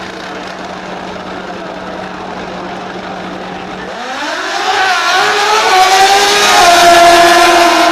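Pro Extreme drag-racing motorcycle engine. About four seconds in it climbs quickly in pitch and loudness to high revs and stays loud and high to the end.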